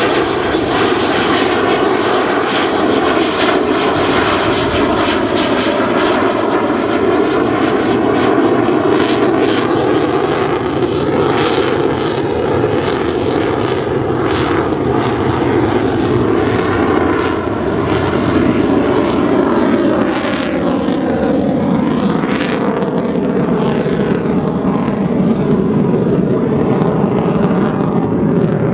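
F-16C fighter jet engine noise, loud and continuous, with bands of tone that slowly sweep lower, as the jet climbs away under afterburner power.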